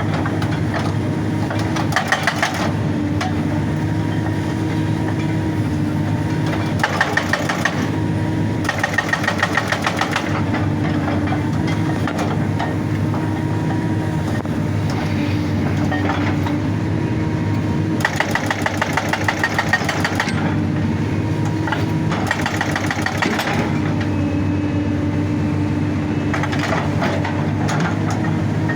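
Excavator's diesel engine running steadily while its hydraulic breaker hammers rock in several short bursts of rapid blows, each lasting a second or two.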